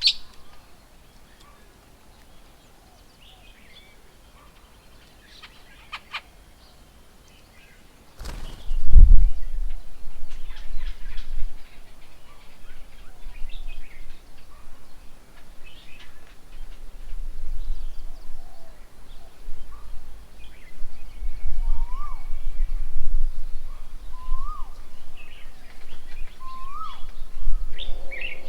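Wild birds calling around a bird table: scattered chirps at first, then from about two-thirds of the way through one bird repeating a short rising-falling call every two to three seconds. About eight seconds in there is a thump, followed by a loud, irregular low rumble that carries on underneath.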